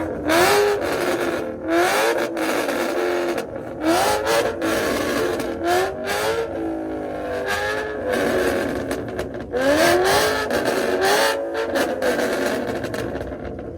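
A car engine being revved hard over and over, its pitch climbing on each rev, about eight revs in a row with sharp cracks between them. The revving fades near the end.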